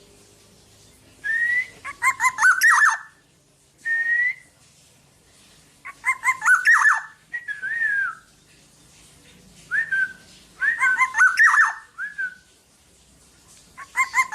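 Black-naped oriole singing: loud, fluty whistled phrases of quick sliding notes, repeated every two seconds or so, with single slurred whistles between them.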